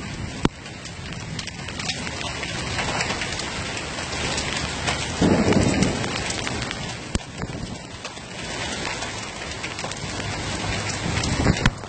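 Heavy rain during a flood: a dense, steady hiss of downpour, with a louder low rumble lasting about a second, some five seconds in.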